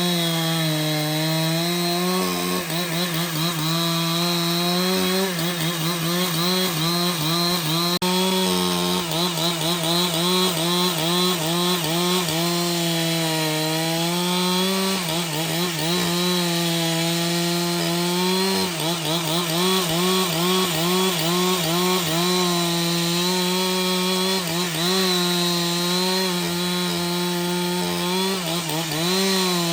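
Chainsaw running under load while cutting through a log, its engine note wavering and sagging briefly now and then as the chain bites into the wood.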